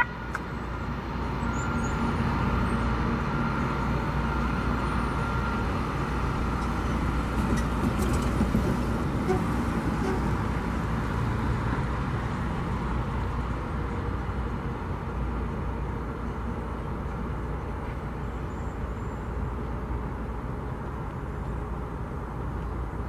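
Diesel-hauled commuter train running away down the track: a steady rumble of the locomotive and wheels on rail that slowly fades as it recedes, with a faint thin ringing tone in the first few seconds.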